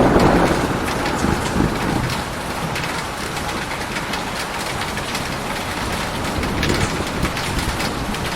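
Steady rain falling, with many distinct drops pattering. A thunder rumble fades out over the first couple of seconds.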